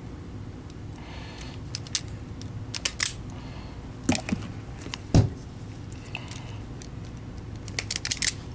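Automatic wire stripper clicking and snapping as it grips and strips wire. A scattered run of sharp clicks, the loudest about five seconds in, with a quick flurry of small clicks near the end.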